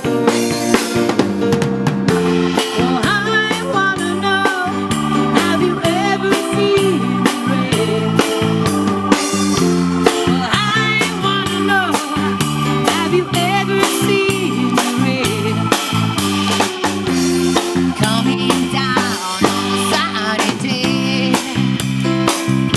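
Band music with bass, keyboards and drum kit playing a steady beat, with an organ-like keyboard line over it.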